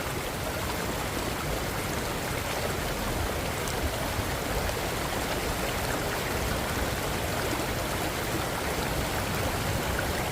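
Fast river water rushing at a steady, even level.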